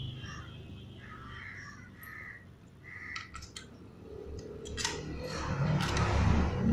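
Crows cawing in the background, with a few sharp clicks about three seconds in and a swelling rumbling noise near the end.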